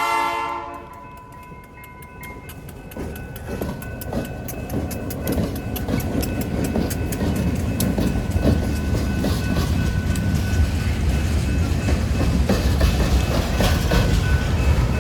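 Freight train horn cutting off just under a second in, then the train passing: a deep locomotive rumble and the wheels clicking steadily over rail joints, growing louder.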